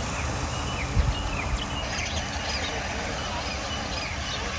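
Birds chirping, many short falling calls over a steady low rumble, with a single thump about a second in.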